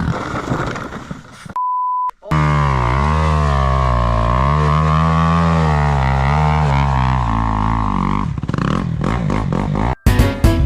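A car engine revving, its pitch slowly rising and falling for several seconds, after a short steady beep about a second and a half in.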